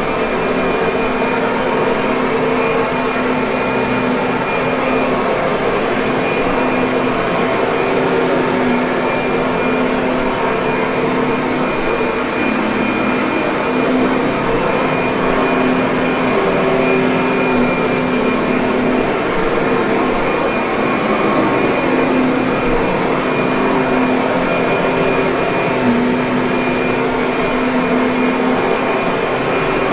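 Kirby vacuum cleaner running continuously: a steady, unchanging motor drone with a few held tones over an even rush of air.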